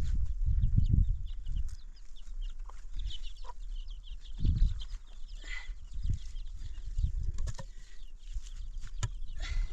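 Chickens clucking in scattered short calls, over loud, dull low bumps near the start and again about halfway through.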